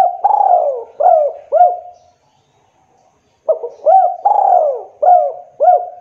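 Spotted dove cooing in two phrases of four or five rounded notes each, with a pause of about a second and a half between them.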